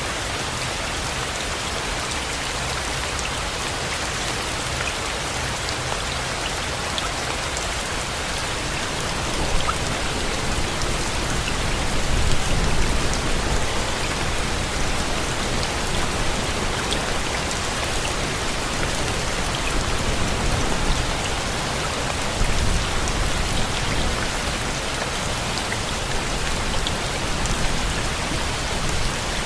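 Steady rain, an even dense hiss with scattered drops, with a low rumbling swell about twelve seconds in and again after about twenty seconds.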